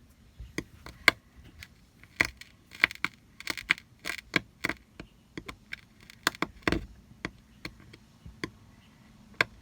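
Irregular sharp clicks, taps and light knocks of small hard objects being handled, many in quick succession, with one heavier knock after about seven seconds.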